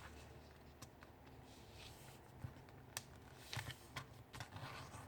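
Faint rustling and creasing of paper being folded by hand, with a few soft crackles and clicks scattered through, a little busier about three and a half seconds in.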